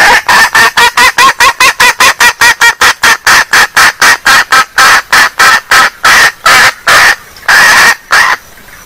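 Junglefowl hen giving a call: a rapid run of short, loud clucking notes, about five a second, that slow down and end in a few longer notes. The recording is used as a lure call for wild junglefowl.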